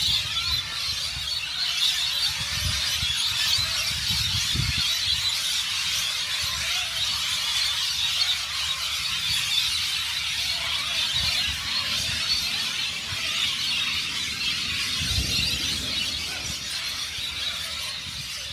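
A large flock of birds roosting in trees, many calling at once in a continuous high-pitched screeching chatter.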